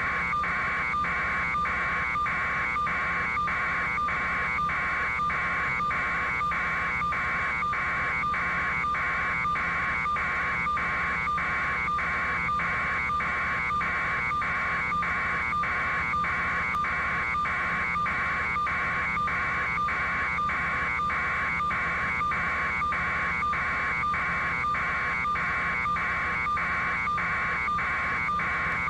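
Electronic warning buzzer sounding in even pulses, about two a second without a break, over a steady low hum.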